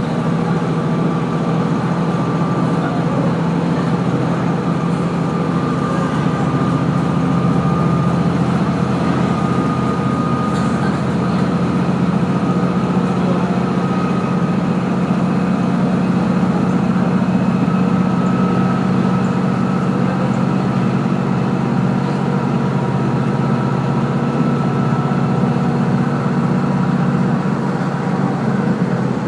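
The Kazekko diesel railcar running along the line, heard from inside the carriage: a steady engine drone with running noise, its pitch rising slightly over the first half and then holding.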